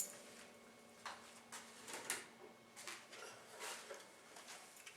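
Quiet room tone with a few faint, light clicks and knocks spread through it.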